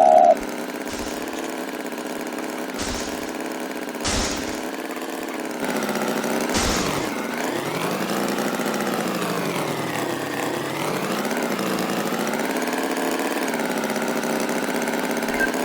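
An engine running steadily, its pitch drifting slowly up and down, with a few short hissy bursts in the first half.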